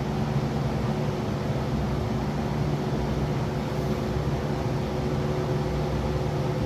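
Steady low mechanical hum with a hiss and a faint constant whine, unchanging, with no tool strikes or clicks.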